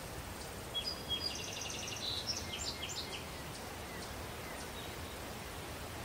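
A songbird sings one short song of high whistled notes running into a quick trill, starting about a second in and lasting about two seconds, over a steady outdoor background hiss.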